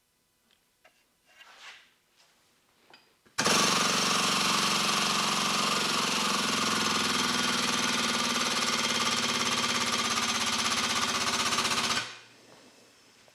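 A foot-operated, air-assisted hydraulic pump chatters rapidly and steadily for about eight and a half seconds while it drives a hose crimper through a crimp. It starts abruptly a few seconds in and cuts off suddenly near the end.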